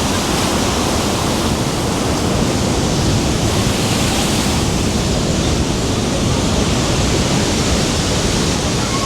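Rhine Falls' roar: a loud, steady rush of heavily falling water.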